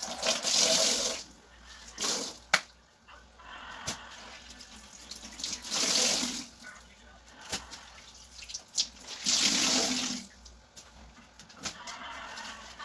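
Tap water running and splashing in a sink in four short spells, with a few sharp knocks between them.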